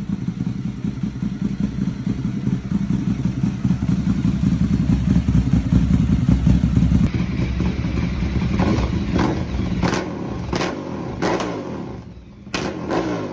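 Ducati Monster 1100 Evo's air-cooled L-twin engine running steadily. About seven seconds in, the sound changes to a string of sharp thumps, roughly one a second.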